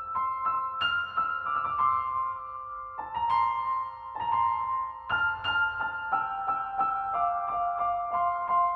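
Background music: a piano melody of single notes and chords, struck in a slow flowing line.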